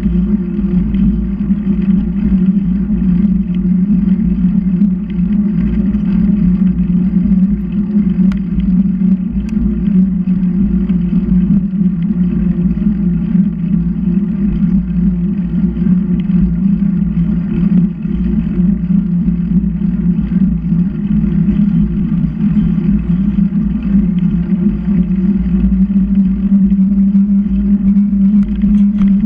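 Steady wind and road noise on a bicycle-mounted microphone while riding, with a continuous low hum throughout.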